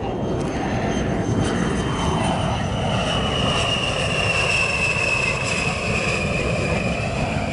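A-10 Thunderbolt II's twin General Electric TF34 turbofan engines running in flight. A steady rumble carries a high-pitched whine that swells after about two seconds and then slides slowly down in pitch.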